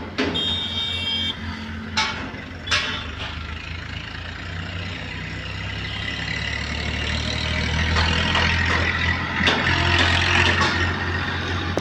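Truck engine running with a steady low hum that grows louder over the second half, with a few sharp knocks along the way.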